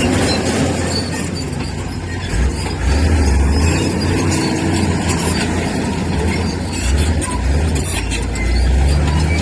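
Crawler bulldozer's diesel engine working under load, a deep rumble that swells twice, with metallic squeal and clatter from the tracks.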